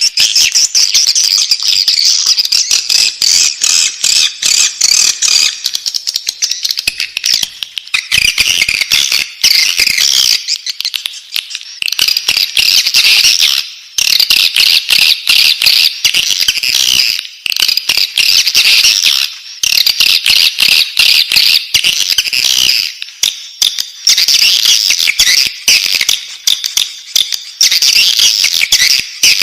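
Swiftlet chicks calling in the nest: a dense, high-pitched twittering of many rapid pulses, going on almost without pause.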